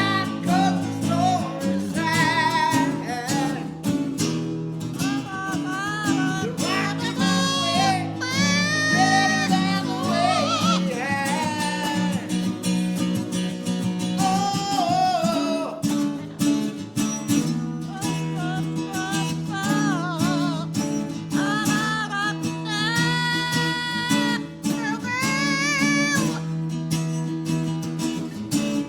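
Acoustic guitar strummed and picked, with a high singing voice carrying a wavering melody over it.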